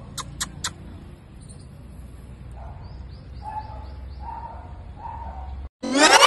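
Birds chirping in a quick run of high notes, with a few lower calls, after three brief clicks at the start. Near the end the sound drops out for a moment and a loud rising whoosh starts.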